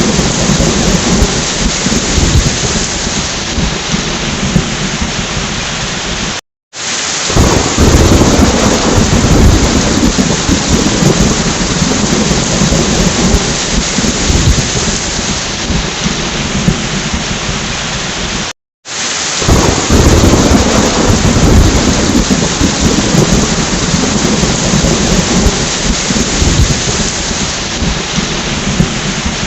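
Steady heavy rain with rolling thunder. The sound cuts out completely twice for a split second, and each time it comes back with a loud low rumble of thunder that slowly fades into the rain.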